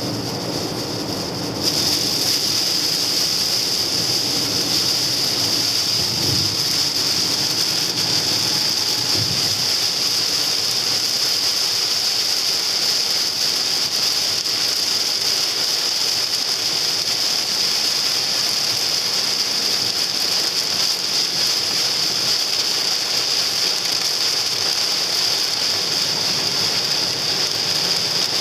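Hail hitting a car in a dense, steady clatter that is heavy enough to dent the body. It gets suddenly louder about two seconds in and then holds steady.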